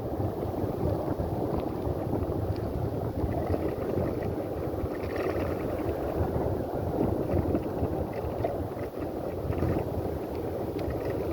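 Wind buffeting the microphone with a steady low rumble while riding a bicycle.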